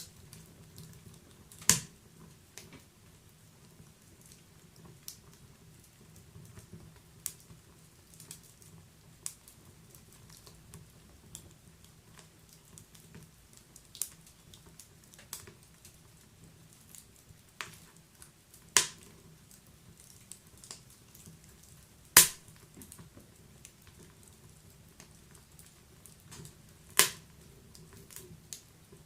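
Wood fire in a fireplace crackling, with irregular sharp pops over a soft low rumble; a handful of pops stand out much louder than the rest.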